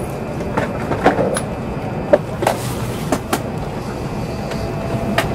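Shinkansen train heard from inside the passenger car as it runs into its terminal station: a steady running rumble with irregular sharp clicks from the wheels passing over rail joints and points, about seven in all.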